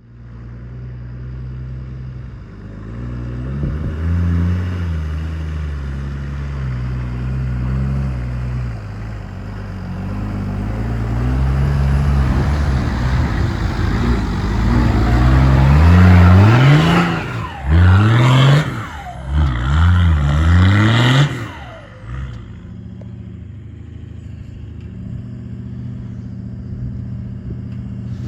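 A four-wheel-drive's engine running under varying load on a rough track. Its pitch shifts up and down, and about two-thirds of the way through it revs up sharply several times in quick succession before settling back to a steadier drone.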